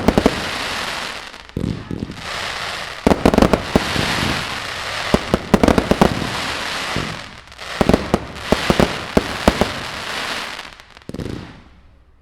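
Fireworks display: aerial shells bursting in rapid volleys of sharp bangs, each volley followed by a long crackling trail of stars. The bursts come in four or five waves and fade out near the end.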